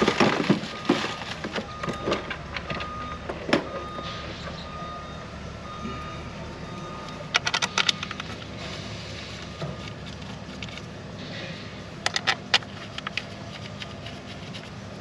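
Sharp metal clicks and taps of the injector hold-down cover being seated and its bolts handled, in clusters near the start, about halfway through and about two-thirds through, over a steady low hum and a faint repeating beep.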